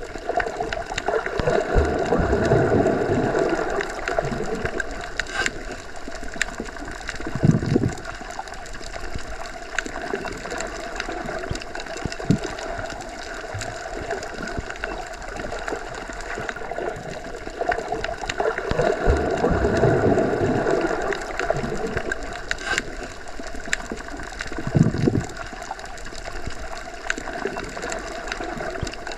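Underwater ambience: a steady muffled wash of water noise with a faint constant hum, swelling twice and easing off, broken by a couple of short low thumps and scattered small clicks.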